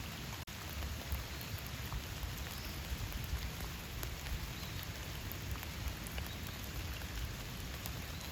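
Steady rain falling in a forest, with individual drops ticking close by. The sound cuts out for an instant about half a second in.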